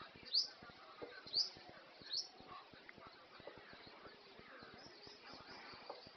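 A small bird chirping: three short, high rising chirps about a second apart, then only faint chirping.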